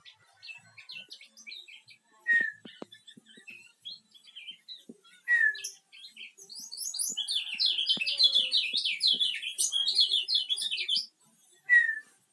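Kecial kuning songbird calling: scattered high chirps and a few sharp falling whistled notes, then a loud, fast twittering song lasting about four seconds in the middle.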